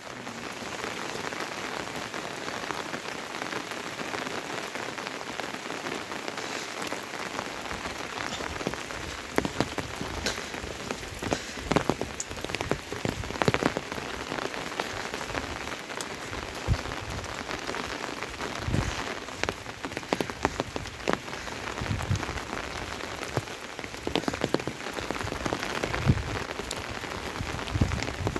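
Steady monsoon rain falling, an even hiss with scattered louder drops striking a surface, the drops coming more often after the first several seconds.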